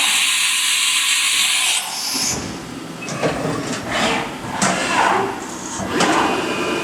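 Haas VF3 vertical machining center changing tools for a peck-drilling operation: a loud hiss of air lasting about two seconds, then a series of short whines that slide in pitch, mixed with knocks.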